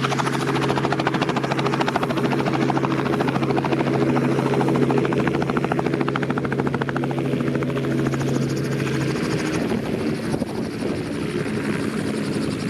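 Rotorcraft flying, with a fast, even beat of the rotor blades over a steady engine drone; the lowest steady tone of the drone cuts off about nine seconds in.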